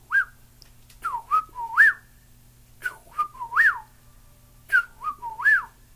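A person whistling an imitation of a Chuck-will's-widow's song. Each phrase is two short notes followed by a loud swooping note that rises and falls, repeated about every two seconds: three full phrases, plus the tail of one at the very start.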